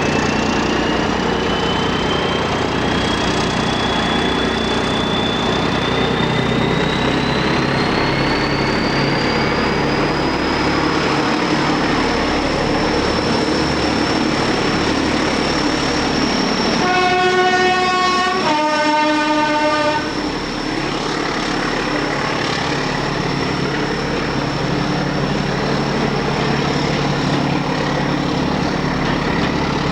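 Diesel locomotive running under power, with a high whine rising in pitch over the first ten seconds and then holding steady. About seventeen seconds in, its two-tone horn sounds: a higher note, then a lower one, each about a second and a half long.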